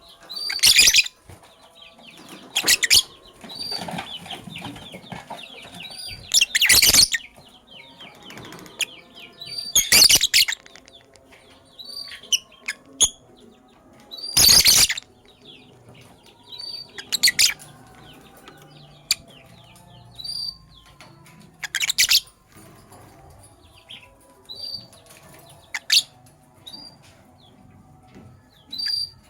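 Captive lovebirds calling: loud, harsh, shrill shrieks every few seconds, with quick high chirps and twitters in between.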